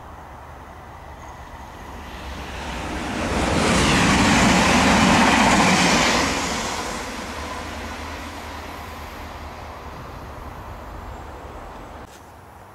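A train passing by: it grows louder for a couple of seconds, is loudest for about three seconds, then fades away slowly.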